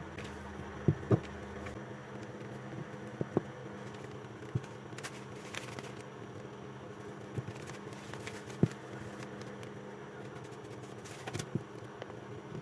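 Scattered small clicks and taps from handling the power station's wired mainboard and its insulation, over a steady low electrical hum.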